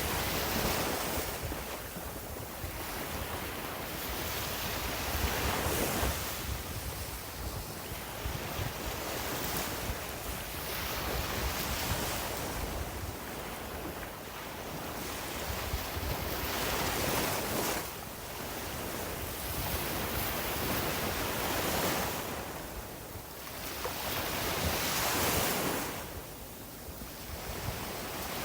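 Sea waves breaking and washing up a beach, swelling and fading every few seconds, with wind rumbling on the microphone.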